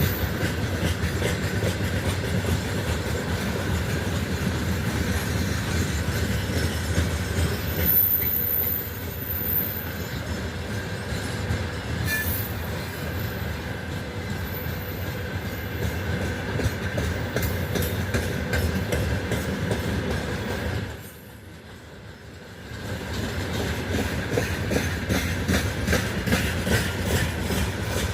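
Heavy freight train rolling past: steady rumble of the wagons with rail-joint clacking and a thin, sustained wheel squeal. The sound briefly drops away about 21 seconds in, then returns.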